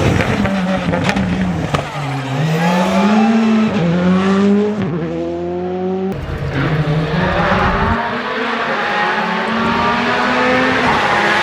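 Skoda Fabia R5 rally car's turbocharged four-cylinder engine at full throttle. Its pitch climbs and drops sharply at quick upshifts in the middle, then holds a long, slowly rising pull.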